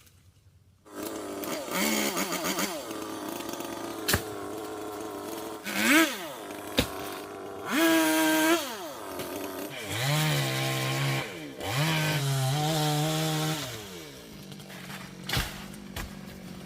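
Chainsaw starting about a second in and running, revving up and dropping back several times as it cuts teak wood.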